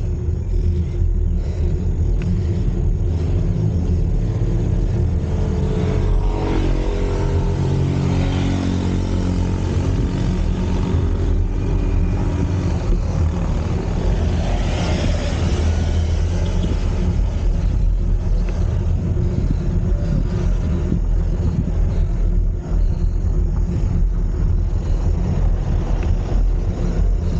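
Steady low wind-and-road rumble on a ride-mounted camera microphone while cycling, with a motor vehicle passing about six seconds in, its pitch rising.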